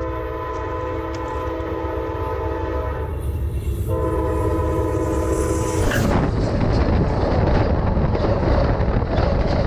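Train horn sounding two long blasts, the second after a short break, followed by the rumble of a train going by, growing louder.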